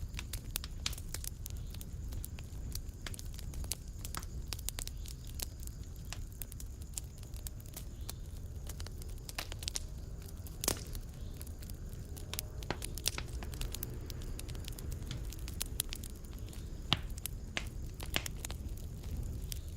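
Wood fire in a fireplace crackling: irregular sharp pops and snaps over a steady low rumble of the flames, with a louder pop about halfway through and another near the end.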